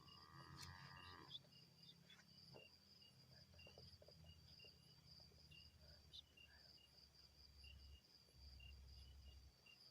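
Near silence: faint insects chirping at night, a steady high trill with a slower pulsing chirp beneath it, over a low hum. A brief faint tone sounds in the first second or so.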